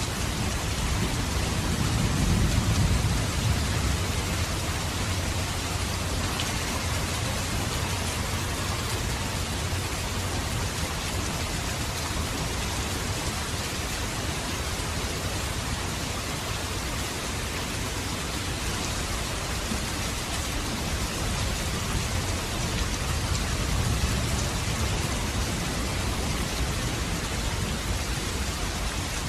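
Steady rain falling, with a low rumble swelling about two seconds in.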